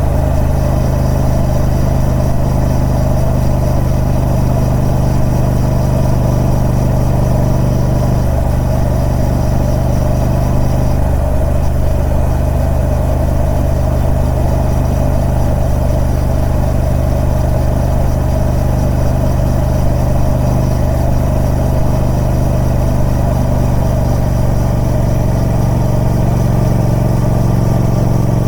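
Triumph Speed Twin 1200's parallel-twin engine running steadily through its stock exhaust, its pitch shifting only slightly a few times.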